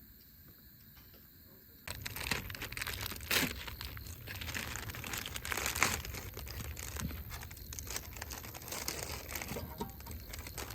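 Quiet for about two seconds, then a sudden change to steady crinkling and rustling with many small clicks and a low rumble beneath, like something crumpled or handled close to the microphone.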